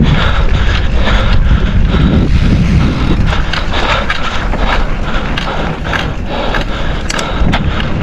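Mountain bike rolling fast over a rough trail: a steady rush of tyre noise with frequent rattles and knocks from the bike over rocks and roots.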